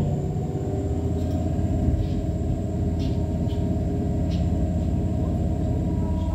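Diesel engine of a DB Class 628 railcar running steadily under way, a deep drone with a thin high turbocharger whine held over it. A few faint short ticks from the running gear come and go.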